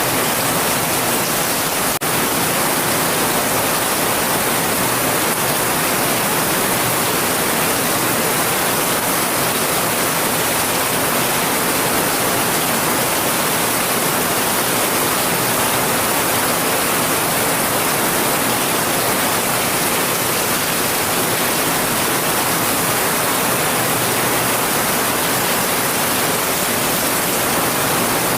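Heavy rain falling as a steady, dense hiss with no distinct drops or thunder.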